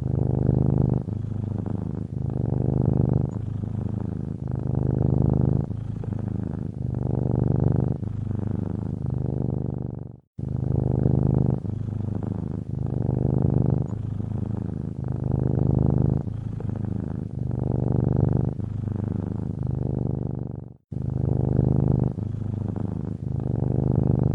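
Domestic cat purring steadily up close, the purr swelling and easing with each breath. It cuts out for a split second twice, about ten seconds apart.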